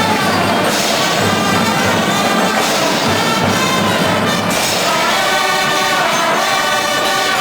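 Marching band playing, the brass section sounding loud held chords that change every second or so.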